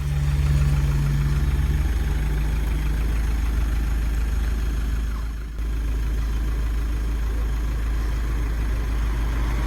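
A motor vehicle's engine running steadily with a deep low rumble, dipping briefly about five and a half seconds in.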